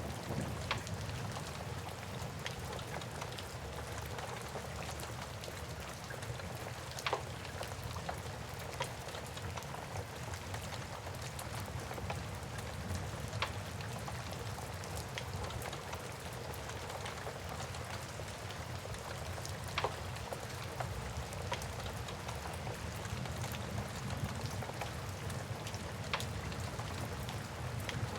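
Steady rain hissing with a low rumble beneath it, over a wood fire crackling. Sharp pops stand out every six seconds or so.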